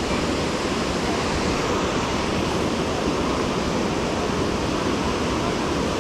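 Waterfall pouring: a steady, unbroken rush of falling water that does not change.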